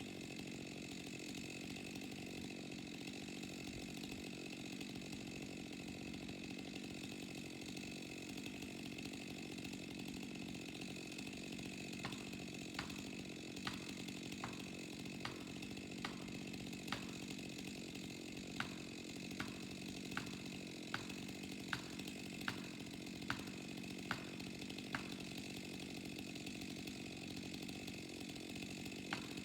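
Chainsaw engine running steadily. Partway through comes a run of sharp clicks, about one a second.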